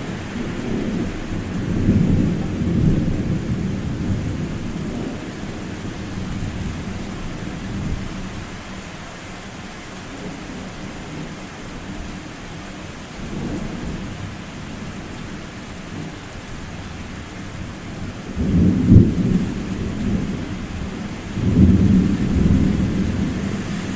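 Rolling thunder: a low rumble about two seconds in, a weaker one near the middle, the loudest peal about nineteen seconds in, and another long rumble near the end, over a steady hiss of rain.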